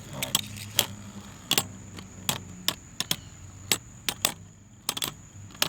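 Two 3D-printed Beyblade spinning tops battling in a stadium, clacking against each other and the stadium wall in sharp, irregular clicks a few times a second as the battle comes down to stamina.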